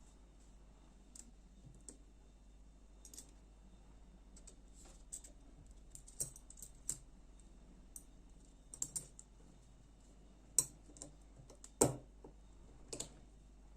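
Scattered light clicks and taps of a folding knife's small parts and Torx driver being handled, irregular and sparse, with a few sharper knocks in the second half, the loudest about two seconds before the end.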